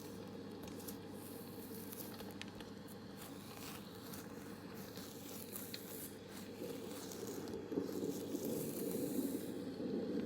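Close-miked ASMR rustling and crinkling with scattered small crackles over a steady hiss, growing louder about seven seconds in.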